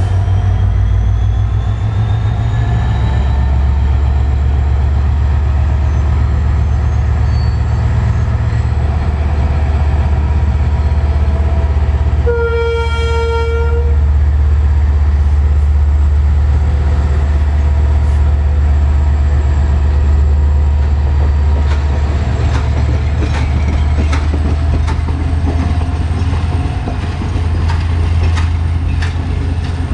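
Class M11 (WDG4D) diesel-electric locomotive pulling a slow passenger train away, its diesel engine running loud and steady with a deep rumble. About twelve seconds in it sounds its horn once for about a second and a half. In the last third the wheels click rhythmically over rail joints as the train gathers speed.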